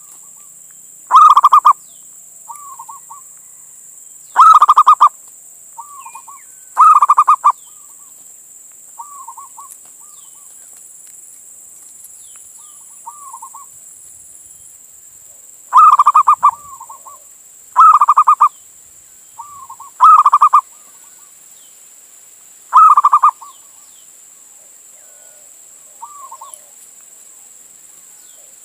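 Male zebra dove (perkutut) cooing its song: seven loud, rapidly trilled coos about half a second each, in groups with a pause of several seconds in the middle. Softer short coo notes fall between the loud ones.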